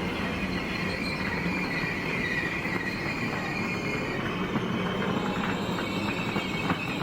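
Train moving through the station with its wheels squealing on the rails in a high, wavering tone. In the second half there is a run of short clicks.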